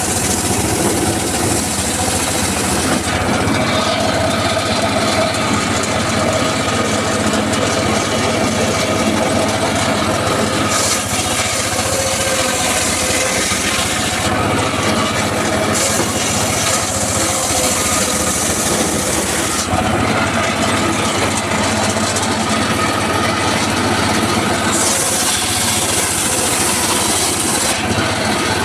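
Engine-driven mobile circular saw running steadily while its blade cuts teak wood, the higher cutting noise starting and stopping several times over the engine's drone.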